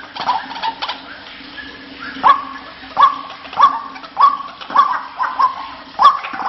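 White-breasted waterhen (ruak-ruak) call played as a bird lure: after a quieter start, a run of seven short, loud, evenly spaced notes about two-thirds of a second apart, each rising sharply and then holding its pitch.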